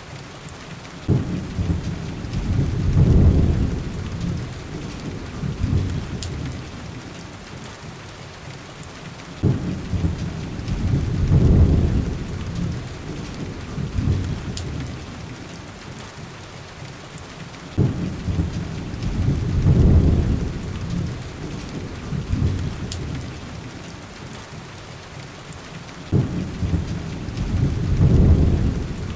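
Steady heavy rain with rolling thunder. Four low rumbles come at even intervals about eight seconds apart, each starting suddenly and swelling for a couple of seconds before fading back into the rain.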